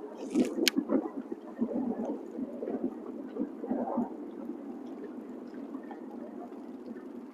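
Water lapping and gurgling against a fishing boat's hull, in an uneven wash, with a short hiss and one sharp click about half a second in.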